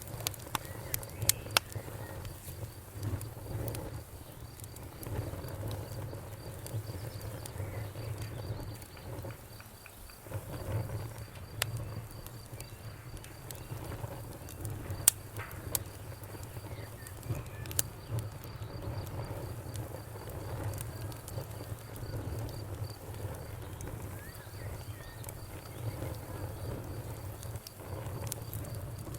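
Wood fire crackling in a fireplace: scattered sharp pops and snaps, the loudest about fifteen seconds in, over a low steady rumble.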